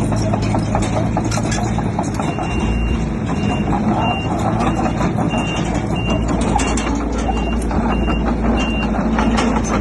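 Heavy earthmoving machinery's diesel engine running steadily, with a reversing alarm beeping about one and a half times a second from about two and a half seconds in until near the end: a machine backing up.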